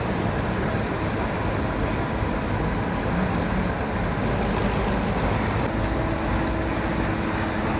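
Heavy diesel machinery, a bulldozer and a stuck KAMAZ truck, running steadily under load as the bulldozer tows the truck back out of sand. A faint steady tone joins the engine noise about six seconds in.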